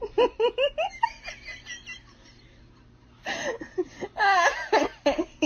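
A person laughing in quick runs of short giggles, stopping for about a second and a half, then laughing again.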